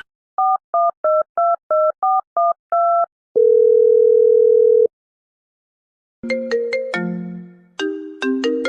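Telephone keypad tones: about nine quick two-note beeps as a number is dialed, then a steady single tone for about a second and a half. After a short silence a chiming melody begins, like a ringtone or music.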